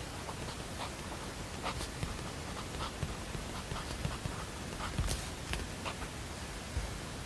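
Steady background hiss with light, irregular clicks and taps scattered through it, a few every second.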